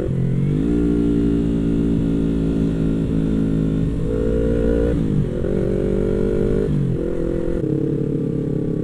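Yamaha MT-25's parallel-twin engine running under way, heard from the rider's seat. Its pitch dips briefly and climbs back three times: at the start, about five seconds in, and about seven seconds in. Wind rumble runs underneath.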